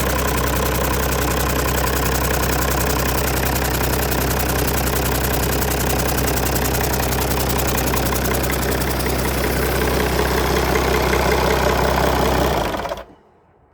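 Perkins Phaser 1006T six-cylinder turbo diesel engine running steadily on a test run. The sound cuts off abruptly near the end.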